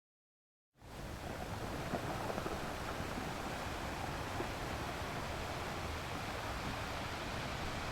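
Ocean surf: a steady wash of sea waves, fading in about a second in after a moment of silence.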